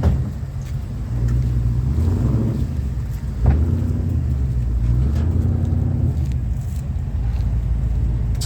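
LS6 V8 engine in a Chevrolet C10 truck running at a steady idle with a deep rumble. A sharp knock about three and a half seconds in.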